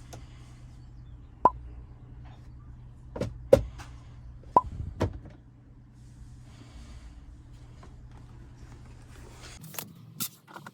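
Several sharp clicks and knocks over a steady low hum; the hum cuts off suddenly near the end.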